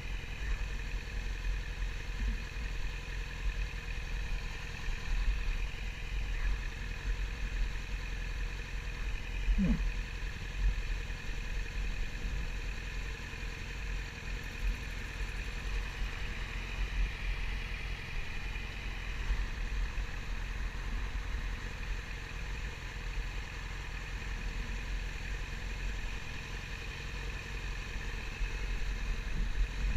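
Wind buffeting the action camera's microphone with a low, fluttering rumble, over a Yamaha YZF-R6's inline-four engine running at steady revs. A brief rising sound comes about ten seconds in.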